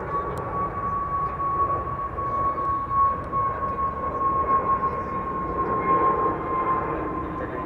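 Jet airliner taking off: a steady engine roar with a strong whine that slides slightly down in pitch, then cuts off suddenly at the end.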